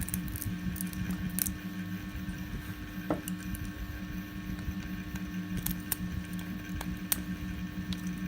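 Scattered small clicks and snaps of plastic support material being cut and pried off a 3D print with pliers and cutters, over a steady low hum.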